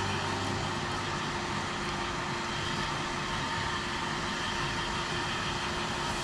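Hair dryer running steadily, an even blowing whir.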